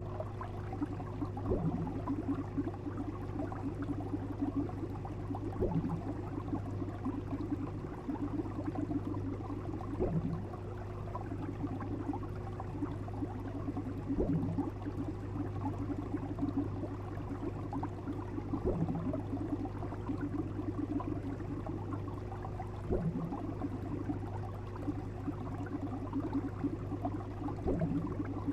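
Steady low hum under a bubbling, watery texture, with a short low pulse repeating evenly about every four seconds.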